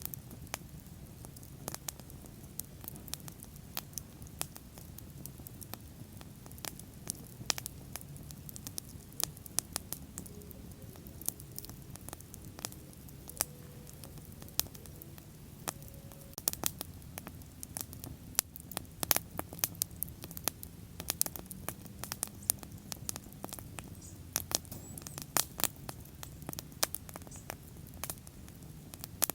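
Wood bonfire burning: many sharp crackles and pops, coming more often in the second half, over a steady low rumble of the flames.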